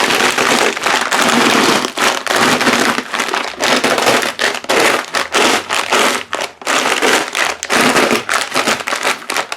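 Pretzels being crushed inside their plastic bag: a long run of irregular crunching with the bag crinkling.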